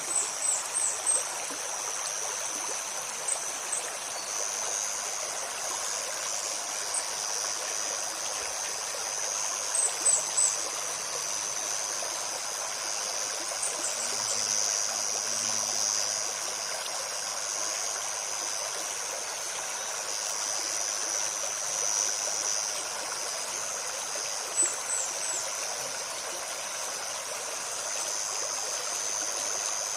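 A shallow forest stream babbling steadily over stones, with a steady high insect drone above it. Short, very high bird chirps come in quick runs of three or four, near the start, about a third of the way in, and again near the end.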